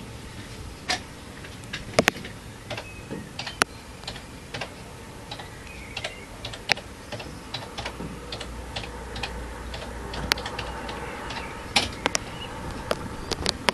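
Scattered sharp ticks of raindrops striking a hard surface, one to three a second and uneven, during a thunderstorm. A low rumble of distant thunder rises from about eight seconds in and fades out near twelve seconds.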